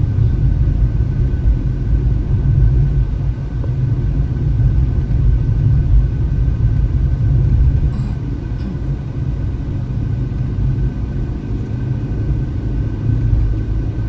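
Steady low rumble of a car's engine and tyres, heard from inside the cabin as it drives up a mountain road.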